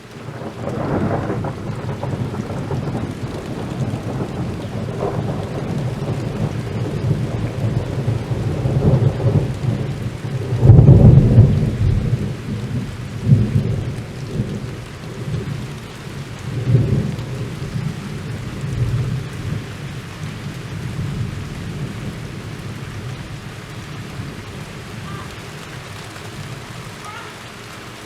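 Thunderstorm: rain falling hard and steadily, with rolling thunder throughout. The loudest peal comes about eleven seconds in, with further rumbles after it, and the thunder eases toward the end.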